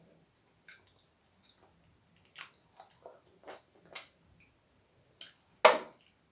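Close-up eating sounds: scattered wet chews and squelches of starch and slimy okra soup, with one sharper, louder smack near the end.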